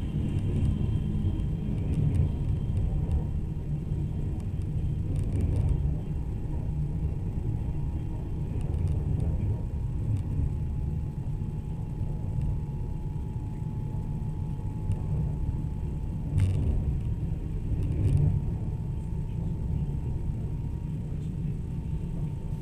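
Steady low rumble of a passenger train running along the track, heard from inside the carriage, with a faint steady whine and two sharp clicks a couple of seconds apart about three quarters of the way through.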